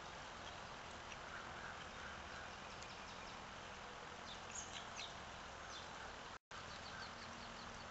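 Steady outdoor hiss with faint, short high chirps of small birds, a few about four and a half seconds in and more near the end. The sound cuts out completely for a moment a little after six seconds.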